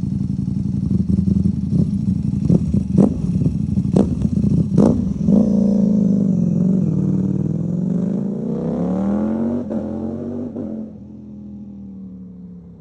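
Ducati V4 SP2's 1103 cc V4 engine through a CS Racing aftermarket exhaust, revving unevenly with several sharp cracks in the first five seconds. It then pulls with a rising pitch and drops to a quieter, steadier note near the end.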